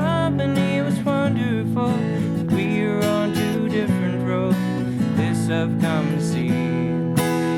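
Acoustic guitar played without singing, strummed chords with picked notes, some of them bending in pitch.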